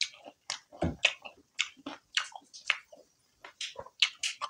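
Close-up open-mouth chewing of fried chicken kebab and rice, with a quick, uneven run of wet lip smacks and clicks, about three a second.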